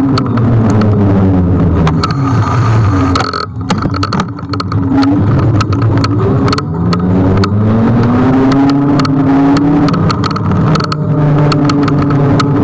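Kugoo G1 electric scooter's motor whining under wind and road noise while riding. The pitch sinks as it slows over the first few seconds, then climbs again as it speeds back up about halfway through, with many small knocks from the road.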